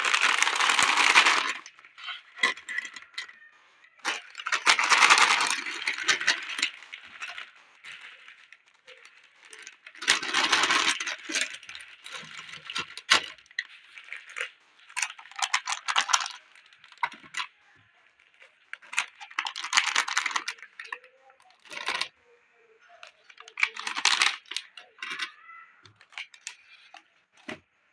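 Snacks and candies clattering and rattling as they are dropped and poured into a drawer, in bursts of dense clicking every few seconds.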